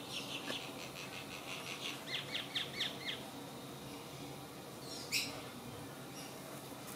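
Small bird chirping: a quick run of short high notes, then about six rapid falling notes a couple of seconds in, and one sharp call about five seconds in.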